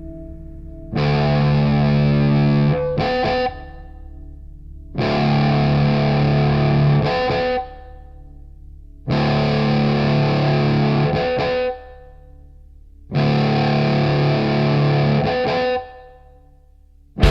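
Instrumental break in a rock song: distorted electric guitar plays four held chords, each about two and a half seconds long and ending in a few quick chopped hits, with a quieter low drone in the gaps between them.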